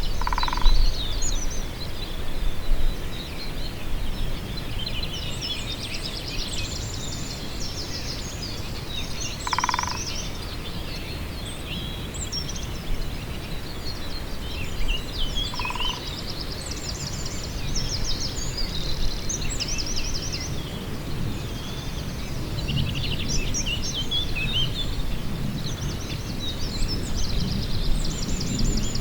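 Several small songbirds singing and chirping high and continuously over a steady low rumble. Three short, lower single call notes stand out: about half a second in, near ten seconds, and near sixteen seconds.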